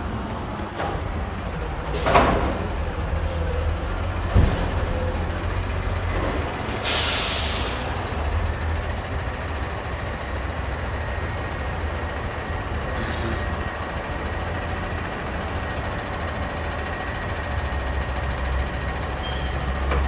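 Garbage truck engine running steadily, with a knock about two seconds in, a sharp bang a couple of seconds later, and a burst of air-brake hiss about seven seconds in.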